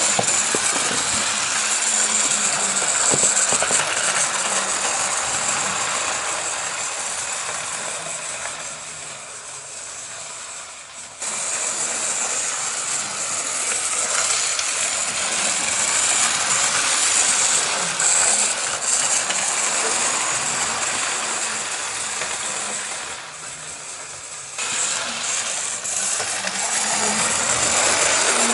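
OO gauge model steam locomotive running on track: its small electric motor and gears whirring with the wheels rattling over the rails. The sound fades down twice, about a third of the way in and again near the end, each time coming back loud suddenly.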